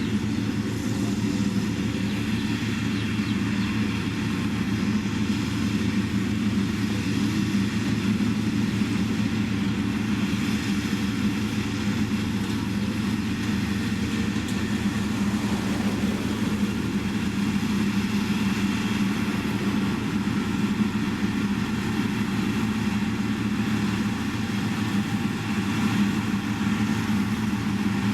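Diesel engine of a heavy road-building machine running steadily at an even speed.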